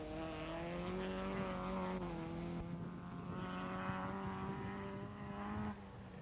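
A car engine running, its pitch drifting slowly up and down, then cutting off near the end.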